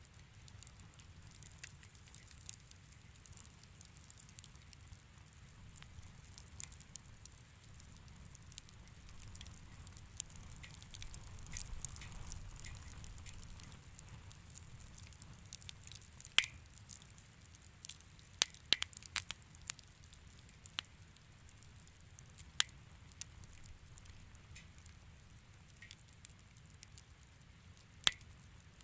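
Wood fire crackling in a fireplace: a low steady rumble of flame with scattered sharp pops and snaps. There is a brisk cluster of pops a little past halfway, and one of the loudest pops comes near the end.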